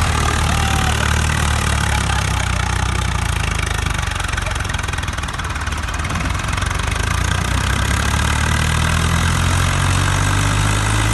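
Diesel tractor engine running at a steady idle, its speed rising in the last few seconds as it is revved.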